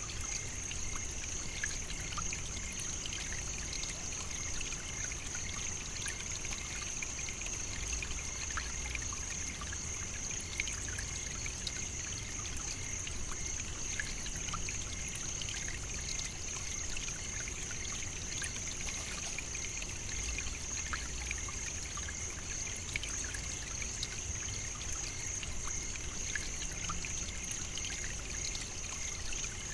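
Savannah nature ambience: a steady, high-pitched insect drone with many faint ticks and a trickling hiss beneath it.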